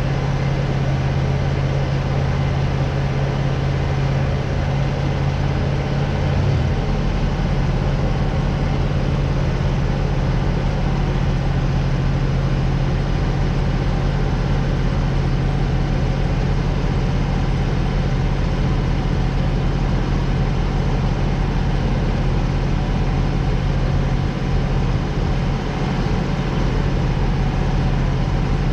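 Tractor engine running steadily while moving a sawmill trailer, its note shifting once about six seconds in.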